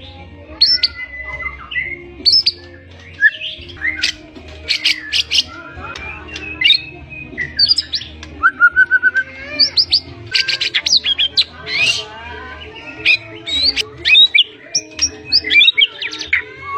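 White-rumped shama singing loudly and without pause: a fast, varied stream of rising and falling whistles, trills and sharp clicks, full of mimicked calls.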